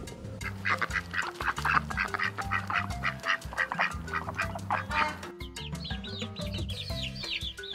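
A fast run of short, repeated bird calls over background music. From about five seconds in they give way to a series of short, high, falling chirps.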